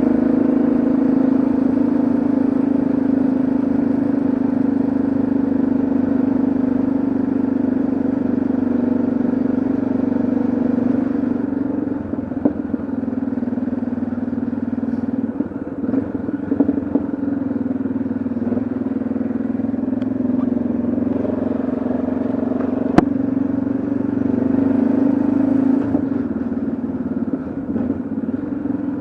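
Yamaha XT660Z Ténéré's single-cylinder engine running steadily under way. The engine note eases off and turns uneven about twelve seconds in, builds again about ten seconds later, and there is one sharp click shortly after.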